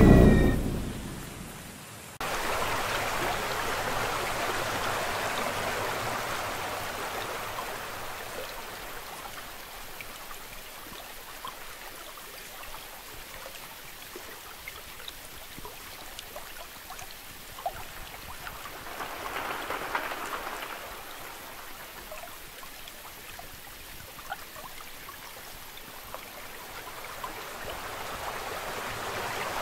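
Steady rainfall hiss with scattered drop taps, swelling briefly about twenty seconds in. It opens with a loud low rumble that fades over the first two seconds, and then the rain starts abruptly.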